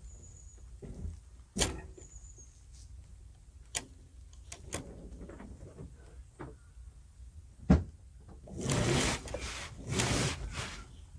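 Sailboat rigging being handled: scattered knocks and clicks, the loudest a sharp knock a little past halfway. Then, near the end, two rasping, rushing noises of about a second each.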